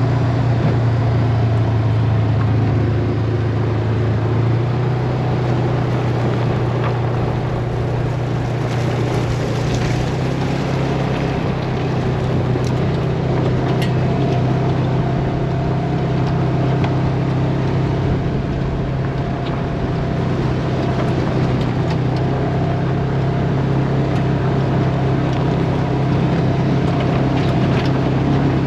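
Side-by-side UTV engine running steadily under way on a rough trail, with tyre and trail noise over it; the engine note rises about ten seconds in.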